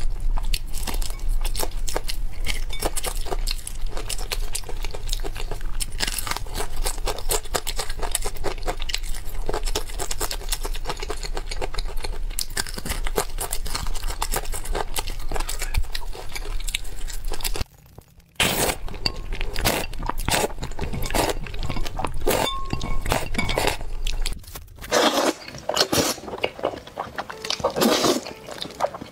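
Close-miked eating sounds: bites into crispy fried chicken crust and chewing, a dense run of sharp crunches and crackles with a brief pause a little past halfway. Near the end the crunches become sparser.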